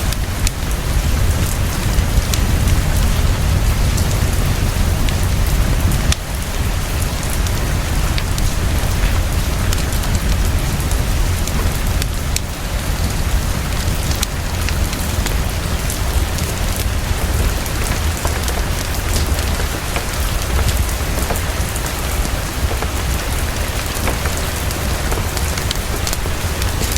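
Heavy, fast, steady rainfall with a deep low rumble underneath and scattered sharp crackling clicks throughout.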